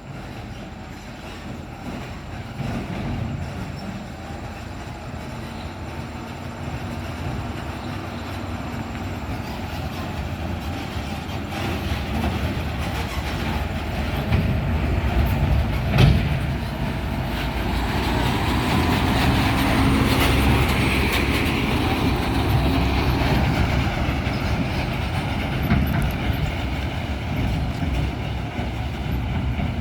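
Heavy truck's diesel engine labouring under load, growing steadily louder, with one sharp knock about halfway through.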